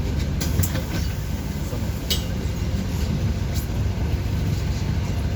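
A bus in motion, heard from inside the cabin: a steady low rumble of engine and road, with a few brief rattles or clicks.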